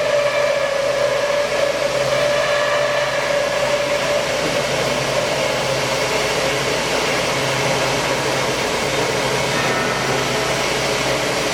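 Industrial band sawing machine running, its blade cutting through a steel H-beam: a steady machine whir with a humming tone that fades somewhat about halfway through.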